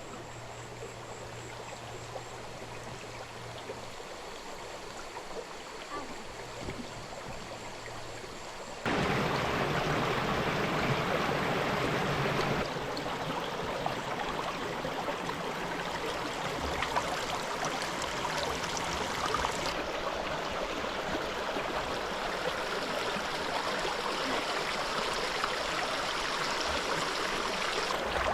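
Stream water flowing, a steady rushing that jumps suddenly louder and fuller about a third of the way in and shifts abruptly a few more times after that.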